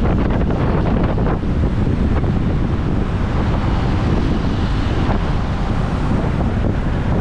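Wind buffeting the action camera's microphone on a moving motorbike: a loud, steady rumble of wind noise.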